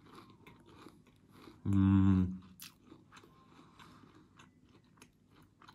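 Close-up biting and chewing of a crisp breaded fried chicken cutlet (panné), with small crunchy crackles throughout. There is a short, loud hum from the eater's voice about two seconds in.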